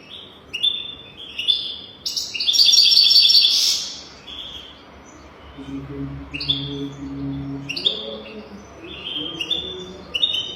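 European goldfinch singing: quick runs of short, bright twittering notes, with a loud buzzy trill about two seconds in.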